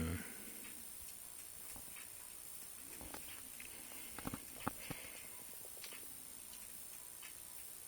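Faint handling sounds: a few soft taps and clicks, mostly grouped around the middle, as small leather belt-loop strips are handled on a work surface, over a low steady hiss.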